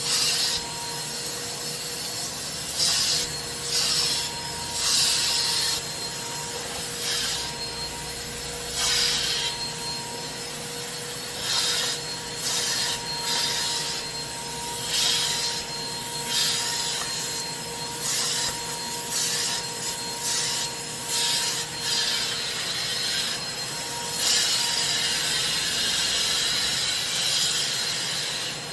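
Carpet-cleaning extraction machine running with a steady motor whine, with about twenty irregular rasping, swishing strokes over it as a stuffed toy is worked.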